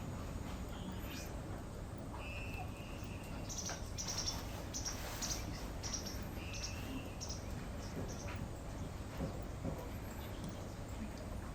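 Wetland birds calling: a run of short, high chirps, thickest in the middle stretch, with a couple of brief steady whistled notes, over a steady low background rumble.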